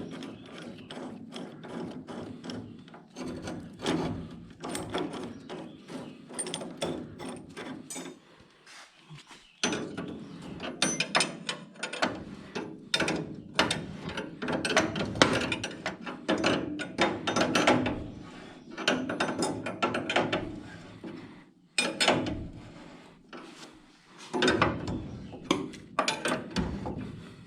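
Hand ratchet wrench clicking in repeated strokes with a couple of short pauses, as old fasteners are worked loose.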